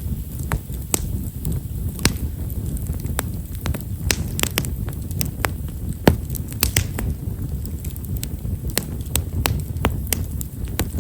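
Himeshara (Stewartia monadelpha) firewood burning in a wood fire: a low rumble of flame with frequent small, fine crackles and pops, the loudest pop about six seconds in.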